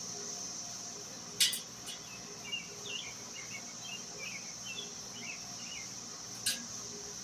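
Steady high-pitched insect trill with short bird chirps over it. Two sharp clicks or knocks cut through, the louder about a second and a half in and another near the end, from parts being handled during the bike assembly.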